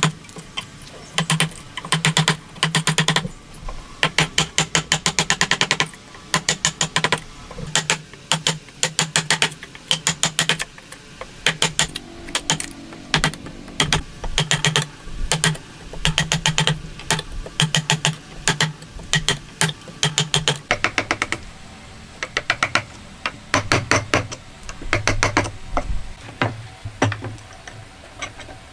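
Rapid mechanical clicking in short bursts, roughly one burst a second, each a quick run of clicks over a low hum, growing sparser later on.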